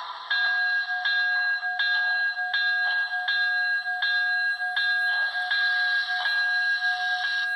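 Sound-equipped HO-scale Pennsylvania Railroad K4s model locomotive (Broadway Limited Paragon 3) ringing its bell through the model's speaker. It rings steadily, about one strike every three-quarters of a second.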